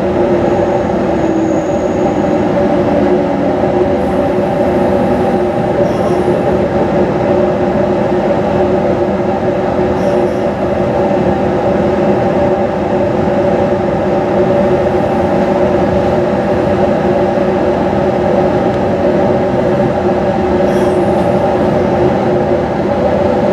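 Inside a JR 215 series double-decker electric train: steady running noise, a rumble with a constant whine over it.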